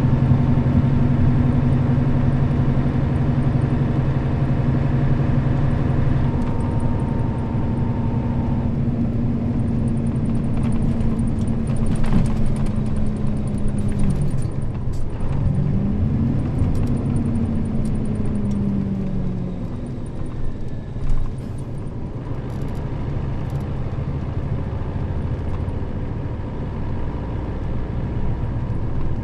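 Nissan Diesel KL-RA552RBN bus running, heard from inside the cabin. The engine note holds steady for about half the time, drops, then climbs for a few seconds before fading to a quieter running sound.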